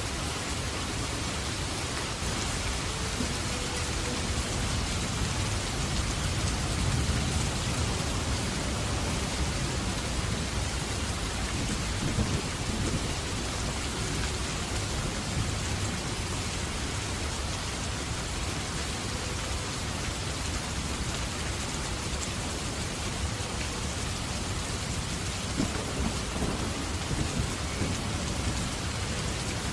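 Steady rain falling, with a low rumble underneath throughout and a few brief louder spikes.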